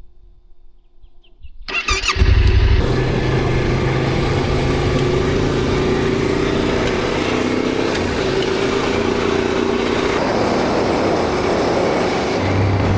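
Yamaha Ténéré motorcycle engine cranked on the electric starter about two seconds in, catching at once and then running steadily.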